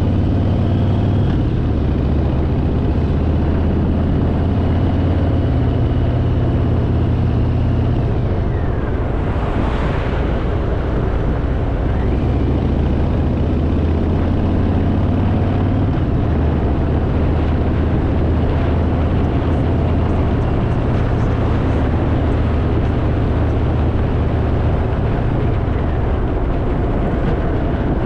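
Harley-Davidson Fat Boy's V-twin engine running under way, steady and loud, its low note shifting a few times, with road and wind rush and a brief whoosh about ten seconds in.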